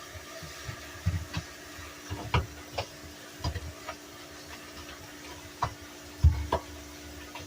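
Irregular knocks and clicks of things being handled and set down while a refrigerator is cleaned, some with a dull thump, the loudest about six seconds in, over a steady low hum.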